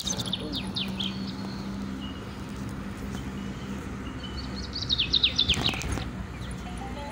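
A bird singing: two quick runs of sharply falling high chirps, one near the start and one about five seconds in, over a steady low hum.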